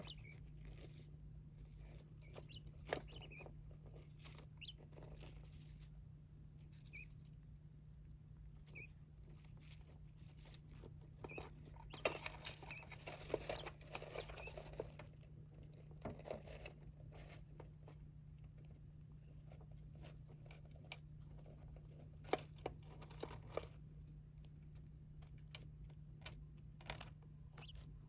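Small pet birds pecking, scratching and rustling, with scattered little clicks and crunches and a busier spell in the middle. A few faint short chirps sound now and then over a steady low hum.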